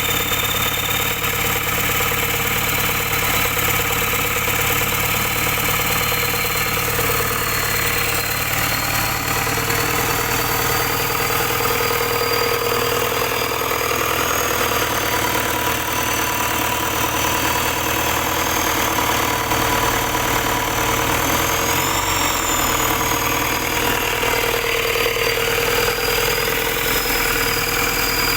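Isuzu dump truck diesel engine idling steadily, with a thin high whine above the engine note.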